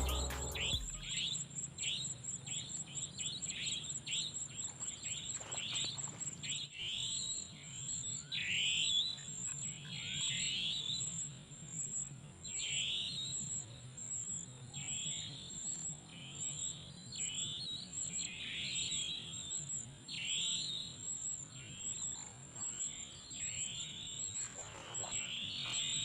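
Outdoor wildlife chorus: an animal gives repeated descending calls, about one a second, over a steady, pulsing, high-pitched insect trill.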